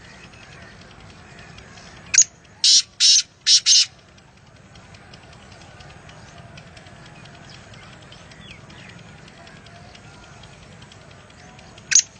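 A bird's loud call about two seconds in: a sharp opening note followed by four harsh, high-pitched bursts in quick succession, the same phrase beginning again at the end. Faint chirps and ticking sit in the background throughout.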